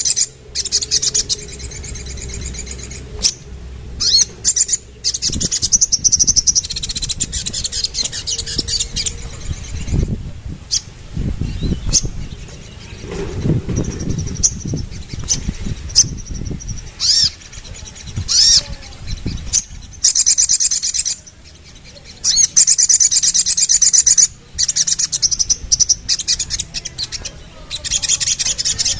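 Crimson sunbird (sogok ontong) singing: fast, high-pitched trilling phrases in bursts with short breaks, heaviest in the first few seconds, around 6–9 s, and from about 22 s on. A low rumble runs under it midway.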